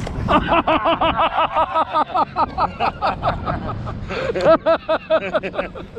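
A man laughing hard in quick, even pulses, pausing briefly a little past the middle and then laughing again.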